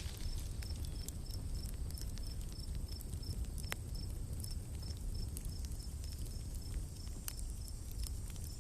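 Forest ambience: an insect chirping steadily, a short high note about twice a second, over a low steady rumble, with scattered sharp campfire crackles.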